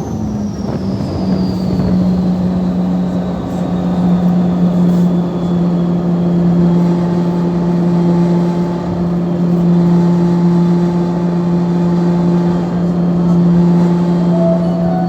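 Scania diesel engine of a ferry running, a loud steady hum. In the first second or two its pitch drops and a high whine slides down, then it holds at an even speed.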